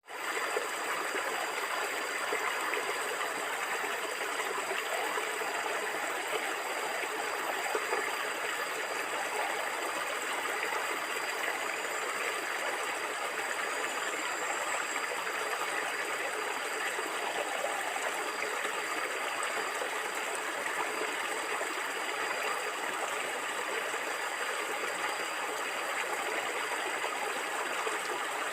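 Stream water flowing and gurgling in a steady, even rush.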